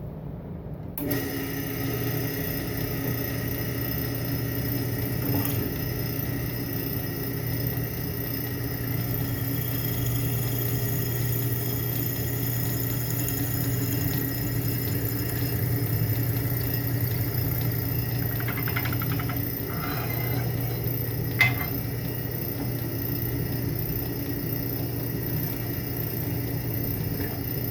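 Electric drill running steadily as it bores the old wooden handle stub out of an axe head's eye. It starts about a second in, with one short sharp click about three quarters of the way through.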